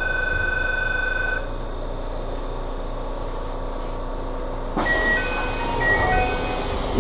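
Station-stop signals on an Aonami Line train: a steady electronic warning tone stops about a second and a half in. From about five seconds, a short chime of several notes at changing pitches plays over a hiss, as the doors are about to close for departure.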